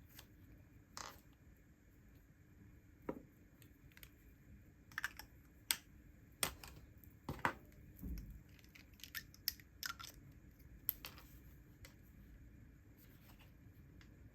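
Scattered light clicks and taps of pens and stationery handled on a desk, coming thickest in the middle few seconds.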